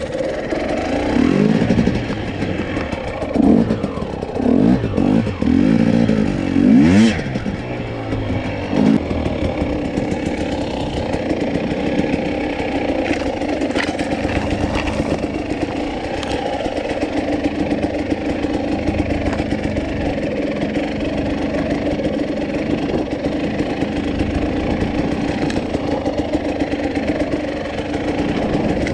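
Husqvarna TE250i two-stroke enduro motorcycle engine, revved in several quick blips over the first nine seconds, then settling to a steady, clattery run.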